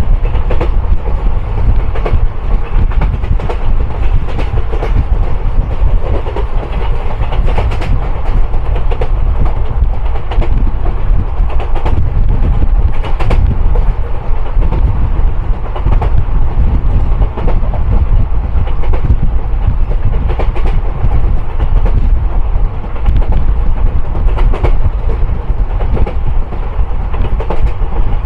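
Running noise of an Indian Railways train heard from inside a coach at speed: a steady low rumble from the wheels and track, with irregular clicks and clatter from the wheels over the rails.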